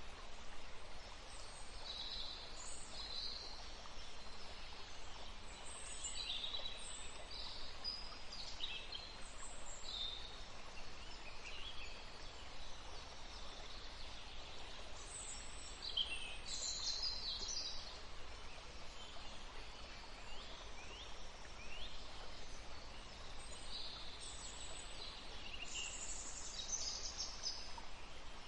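Several forest songbirds chirping and trilling in short, high phrases, over the steady soft hiss of a gentle breeze.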